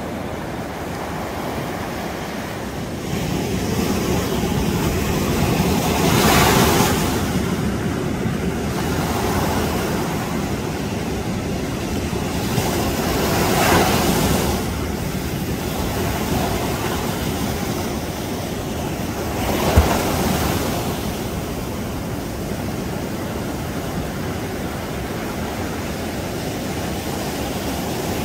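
Surf on a sandy beach: a wave breaks about every seven seconds over a steady wash of water, with wind buffeting the microphone.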